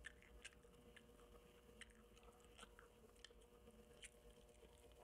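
Faint close-up chewing of crispy fried garlic chicken, with scattered small crunchy clicks from the mouth, over a faint steady hum.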